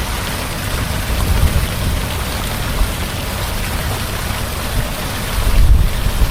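Heavy rain falling steadily, over a deep low rumble of thunder that swells louder near the end.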